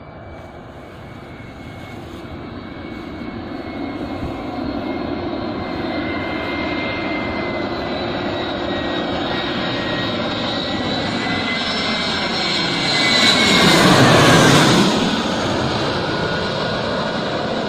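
Airplane flying low overhead. Its engine noise and whine build steadily and are loudest about fourteen seconds in, where the whine drops in pitch as it passes. The noise then eases off.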